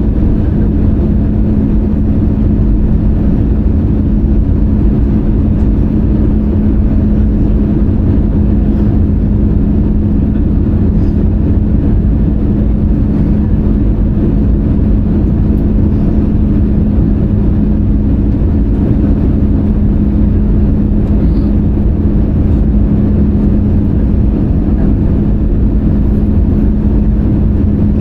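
Steady cabin noise of an Airbus A320-200 heard from a window seat: engine and airflow drone with a constant hum, unchanging throughout.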